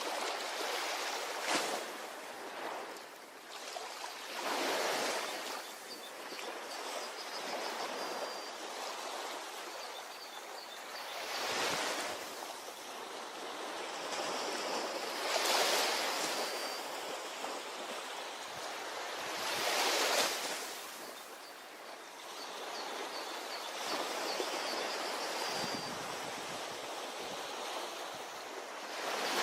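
Ocean waves breaking on a beach: a continuous wash of surf, with a louder wave swelling and fading every few seconds at irregular intervals.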